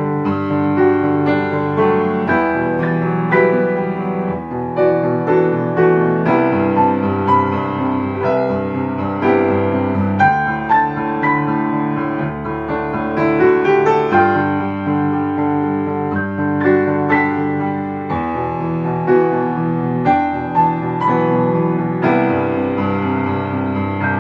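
Piano being played: a continuous flow of struck notes and chords, melody over sustained bass, at an even moderate loudness.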